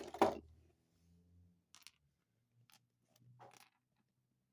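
Small plastic action-figure accessory hands being handled: a sharp click just after the start, then a few faint, scattered clicks and taps.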